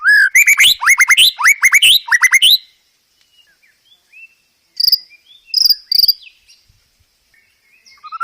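White-rumped shama (murai batu) singing: a rapid run of about ten loud whistled sweeps, a pause with faint calls, then three sharp high notes about five seconds in.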